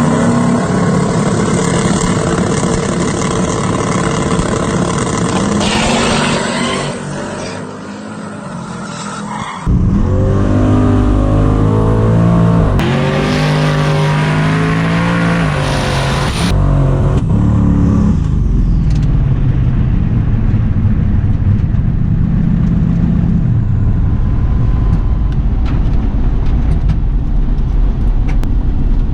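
Drag race car engines running and revving loudly across several edited clips, the pitch rising and falling as the throttle is worked. One clip cuts in abruptly about ten seconds in.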